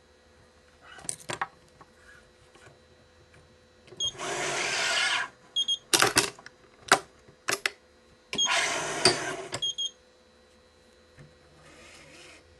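Badminton racket being strung on a stringing machine: two rasping, zipping pulls of about a second and a half each, the string or the machine working as a cross is tensioned, with a few sharp clicks between them.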